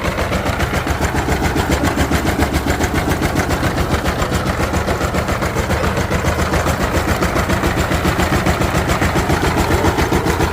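Diesel engine running steadily, with an even, rapid chugging beat of about five pulses a second.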